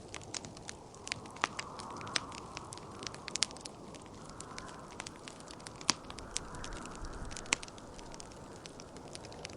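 Wood fire crackling in a fireplace, with irregular sharp pops and snaps over a soft hiss. Behind it a gentle whoosh of wind swells and fades.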